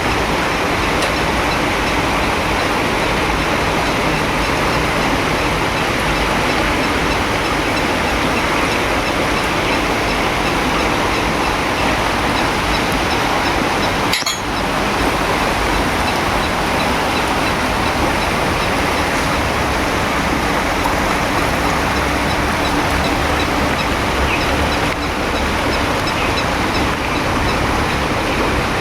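Heavy monsoon rain falling, a steady, dense hiss with a momentary dip about halfway through.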